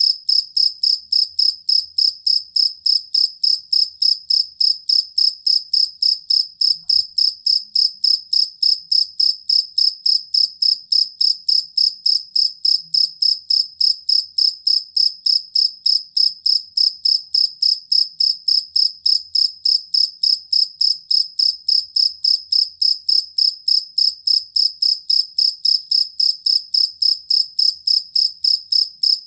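Jangkrik kalung (two-spotted field cricket) chirping steadily, a high, even pulse repeated about three times a second without a break.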